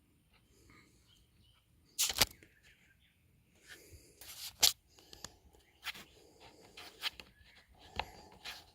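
Handling sounds from pencil-and-ruler marking on a wooden board: faint scrapes and taps, with a brief louder scrape about two seconds in and a sharp knock a little past four and a half seconds.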